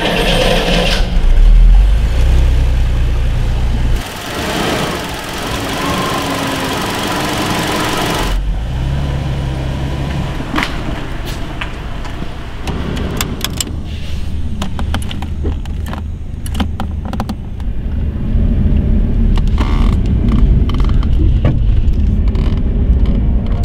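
Jaguar XJS V12 engine running, heard at the twin exhaust pipes and then on the move, in a few short clips cut together, with a loud surge about two seconds in.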